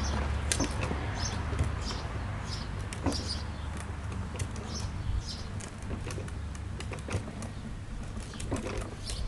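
Outdoor ambience with birds chirping in short high calls, scattered light clicks and scrapes, and a steady low rumble.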